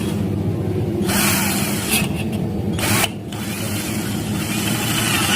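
Hiltec 15 V cordless drill running steadily, with a harsh grinding noise that surges and fades, and a brief drop in level just after three seconds in.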